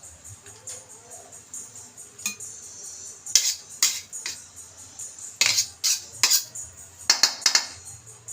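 Dishes and metal cutlery clinking and clattering in short clusters of sharp knocks, the loudest in the second half.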